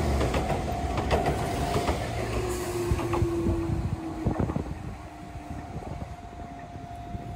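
Enoden (Enoshima Electric Railway) train passing close by, its wheels clicking over the rail joints over a low rumble that fades as it moves away, with a steady hum underneath.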